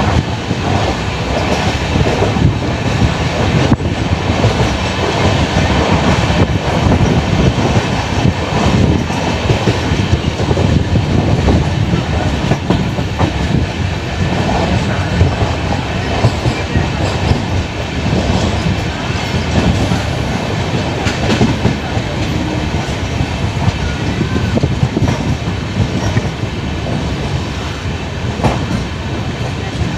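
Udyan Express passenger train running along the track, heard from aboard: a continuous rumble with a dense rattle and clatter of wheels on rails.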